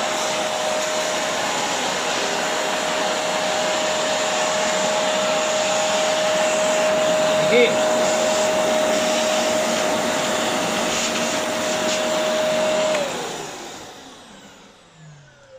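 Bagless 1200-watt vacuum cleaner running steadily with a constant whine. About thirteen seconds in it is switched off and the whine falls in pitch as the motor winds down.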